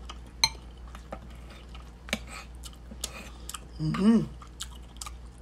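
Close-up eating sounds: chewing and mouth noises, with a few sharp clicks of a metal spoon and fork against a plate. About four seconds in there is a short hummed "mmm" with closed lips.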